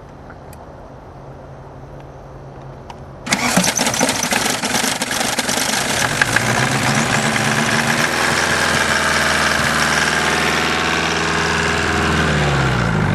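Volkswagen 1.9 turbo diesel engine (AAZ) being cold-started in freezing weather with only one working glow plug. About three seconds in it suddenly cranks and catches, running loud and uneven at first, then settling into a steadier run by about eight seconds.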